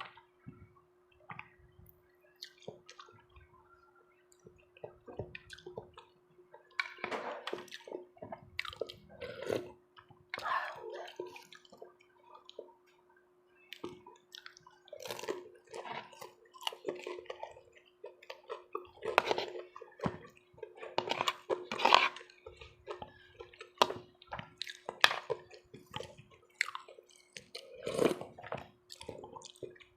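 Close-up eating sounds: wet chewing and slurping in irregular bursts, with scattered sharp clicks.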